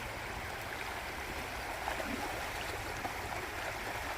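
Creek water rushing steadily over rocks at a salmon run.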